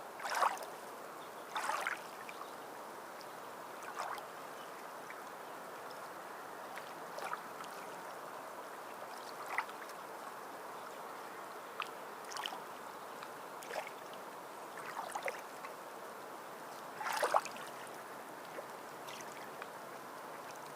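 Small waves lapping and splashing in short, irregular slaps, one to two seconds apart, over a steady gentle wash of water.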